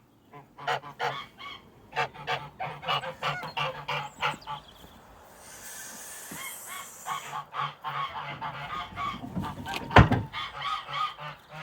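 Domestic geese honking in a quick run of short calls. About six seconds in there is a two-second noisy rustle, and near the end a single sharp knock.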